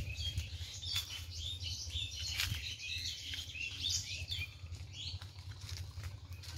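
Small birds chirping and calling again and again in short, high notes over a steady low rumble.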